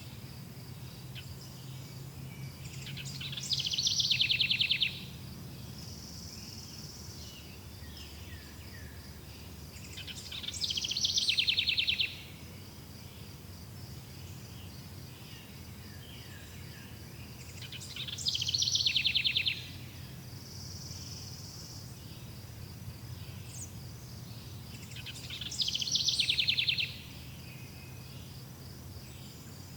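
A songbird repeating a short, fast, high trill four times, about every seven seconds; each song swells and then cuts off sharply. Under it run a steady high insect drone and softer scattered bird chirps.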